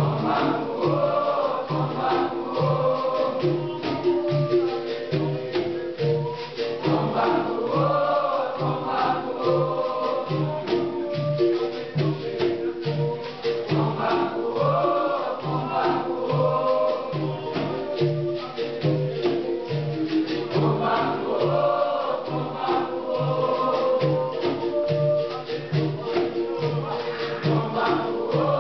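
Capoeira Angola roda music: a group sings the chorus in recurring phrases about every six to seven seconds over a steady, even percussion beat with jingling tambourine-like hand percussion.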